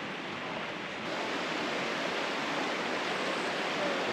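Steady rush of running water, a little louder from about a second in.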